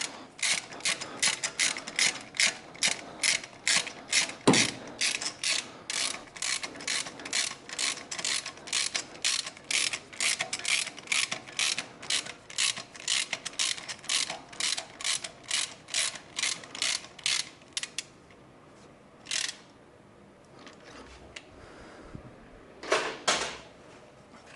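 Ratchet wrench clicking in a steady rhythm, about three clicks a second, while a spark plug is taken out of the engine. The ratcheting stops about 18 seconds in, followed by two single clicks.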